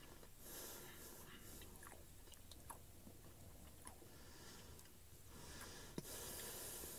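Faint close-up chewing of a crispy breaded Cheetos chicken fry, with small crunchy clicks and one sharper crunch about six seconds in.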